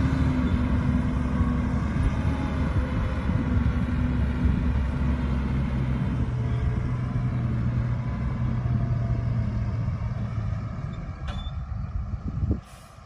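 Heavy diesel engine of earthmoving machinery (a bulldozer or dump truck) running loudly, its note shifting about halfway through. Near the end there are a couple of sharp clicks, then the engine sound drops away abruptly.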